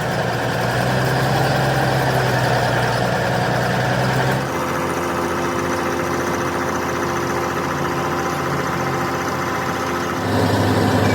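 An engine idling steadily, its sound changing abruptly twice.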